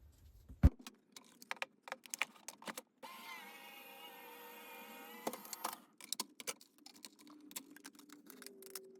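Die-cutting machine running a plate sandwich with a metal shim through for about three seconds with a steady hum. Around it, a sharp knock and clicks and taps from the plates and die being handled.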